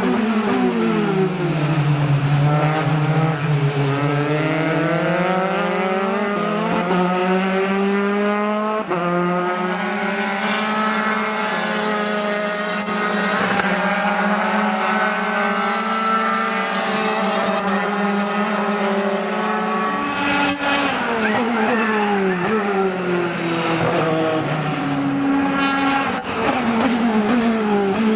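Dallara F312 Formula 3 race car's engine at racing speed. Its note falls as the car brakes and shifts down near the start and again about 20 seconds in. Between these it climbs through the gears and holds a high, steady pitch for a long stretch at full throttle.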